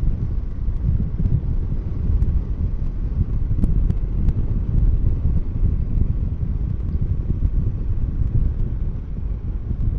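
Kawasaki Versys 650 motorcycle on the move, heard as a steady low wind rumble on the rider's microphone with the bike running underneath.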